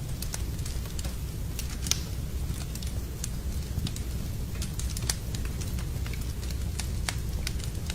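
Wood fire crackling in a fireplace: irregular sharp pops and snaps over a steady low rumble, with louder pops about two and five seconds in.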